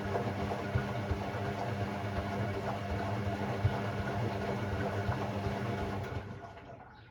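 Hoover Sportswear 1300 (AI130) washing machine's motor turning the drum at a steady speed with water and laundry sloshing, then stopping about six seconds in.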